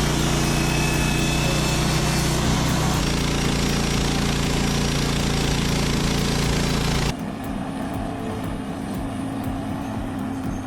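A machine's engine running steadily at a constant pitch; about seven seconds in it cuts off abruptly, giving way to a quieter, more uneven mechanical noise.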